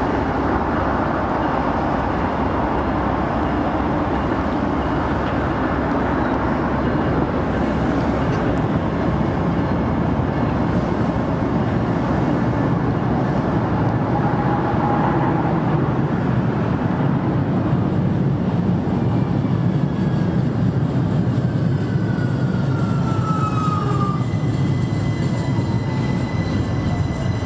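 Amtrak diesel locomotive hauling a passenger train slowly into the station, its low rumble growing louder as it approaches over a steady rushing background. Near the end a few thin squeals slide in pitch.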